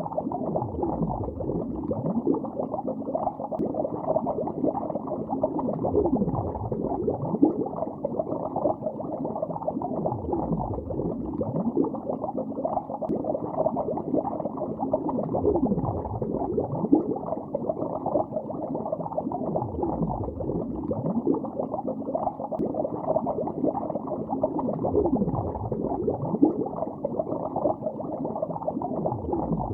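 Underwater bubbling heard on a hydrophone-like recording: a dense, continuous stream of bubbles with deep gurgles that sweep in pitch every few seconds.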